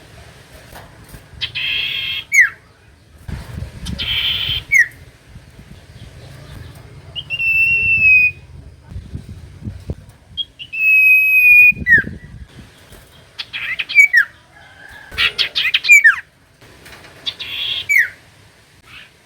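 Common iora (cipoh) singing a lure song: repeated sharp down-slurred whistles, two long level whistles of about a second each around the middle, and short buzzy chattering notes between them.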